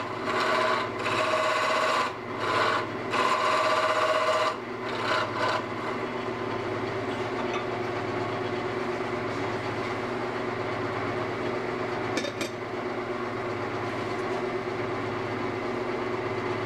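Wood lathe turning a cedar candlestick blank: for the first five seconds or so a turning tool rubs and cuts the spinning wood in repeated short passes, then the lathe runs on its own with a steady hum. A single click comes about twelve seconds in.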